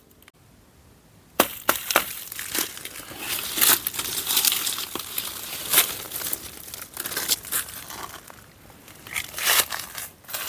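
Footsteps crunching through dry fallen leaves and twigs, an irregular crackle that starts about a second and a half in and keeps going.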